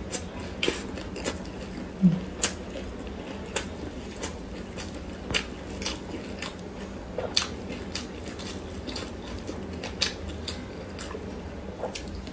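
Close-miked eating sounds of a filled flatbread: bites, chewing and wet mouth smacks, heard as irregular sharp clicks throughout. One louder soft thump comes about two seconds in, over a faint steady low hum.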